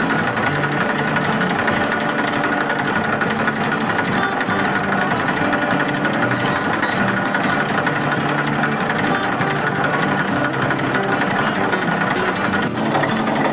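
Mini tractor's motor running steadily.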